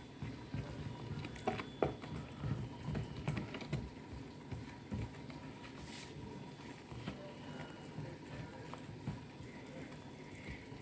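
A spoon stirring poundo yam flour and water in a bowl, making faint, irregular taps and scrapes as the thick mixture is worked together.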